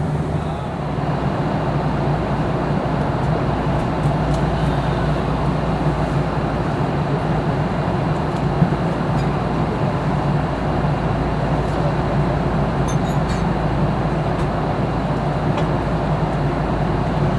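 Steady cabin drone of a Boeing 737-800 in flight: rushing airflow over a constant low engine hum, with a few faint clicks from the cabin.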